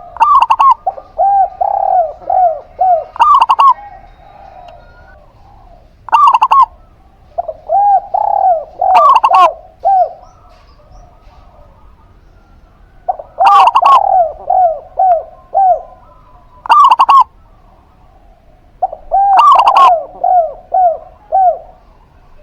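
Zebra dove (perkutut) and spotted dove (derkuku) cooing: four bouts, each a loud opening note followed by a quick run of short rising-and-falling coos, with brief pauses between bouts.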